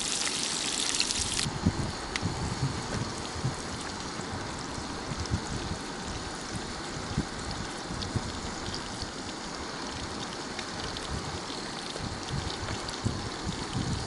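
Rotan fish coated in flour sizzling and crackling as they fry in a pan, a steady hiss with many small pops, a little louder in the first second or so.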